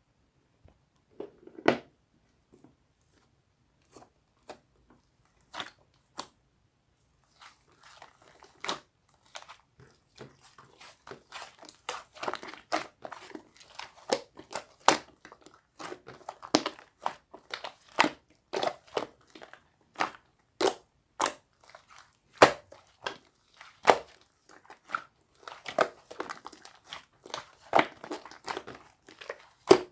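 Slime being squeezed and pressed by hand, giving sticky popping clicks: a few scattered pops at first, then from about ten seconds in a dense, continuous run of crackling pops and snaps.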